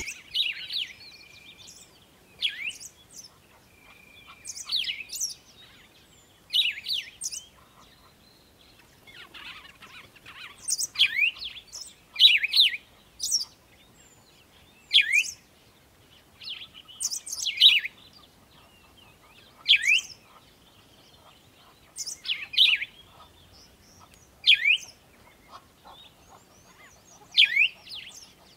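Birds singing: a short phrase of quick downward-sliding whistles repeated every two seconds or so, with fainter chirps in between.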